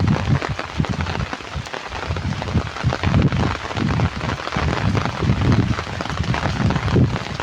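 Heavy rain falling and pattering steadily on surfaces, with irregular low rumbles throughout.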